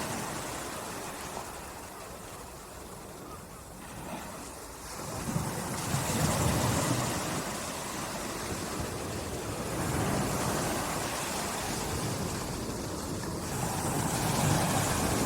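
Small waves lapping on a beach, each swell of surf rising and falling away, with a light breeze.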